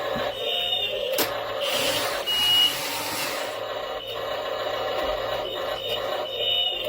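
The small electric motor and plastic gears of a DOUBLE E Ford Raptor F150 toy RC truck whining steadily as it drives. There is a click about a second in, then a burst of scraping for about two seconds.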